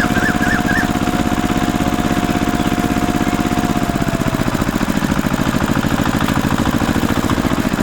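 Small engine idling steadily with a rapid, even chugging beat.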